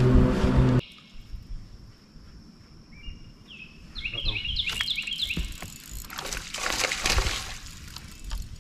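Music cuts off abruptly under a second in, leaving open-air sound. From about three seconds in, a songbird sings quick runs of repeated chirps, with a couple of brief rushes of noise.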